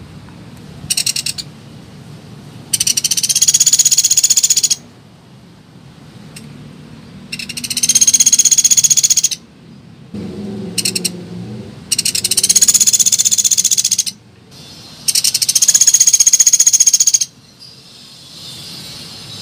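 Woodpecker ('pelatuk beras') giving rapid, high-pitched rattling calls as a lure recording: four long rattles of about two seconds each, with a few short bursts between them.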